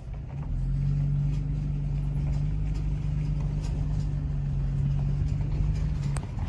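Vehicle engine running at a steady speed with a low, even hum and a few light clicks; the hum cuts off shortly before the end.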